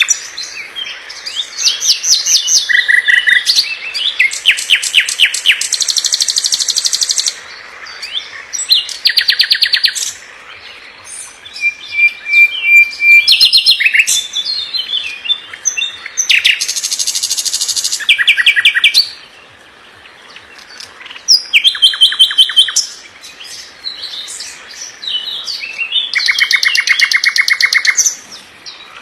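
Songbird singing a loud, fast song: phrases of rapidly repeated notes and trills, each lasting a second or two, separated by short pauses, with a longer lull a little past two-thirds of the way through.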